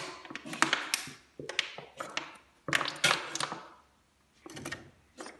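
Objects being handled, with taps and thuds in four short clusters: at the start, around a second and a half in, around three seconds in, and briefly near the end.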